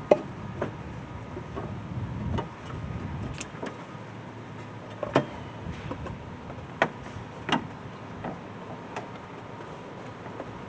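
Scattered clicks and knocks of intake parts being handled and fitted by hand, with a rubbing, scraping stretch about two seconds in as a snug-fitting piece of the air intake is worked into place.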